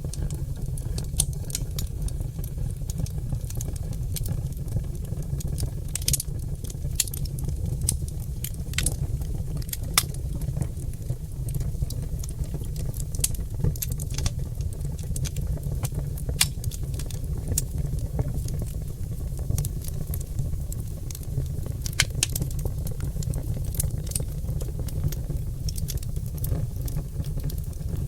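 Oak logs burning in a fireplace: a steady low rumble of the fire with frequent, irregular sharp crackles and pops.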